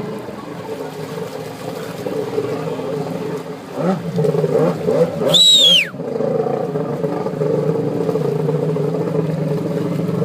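Jet ski engine running on the lake, revving up and down for a couple of seconds around the middle. At the loudest point a single sharp whistle slides down in pitch.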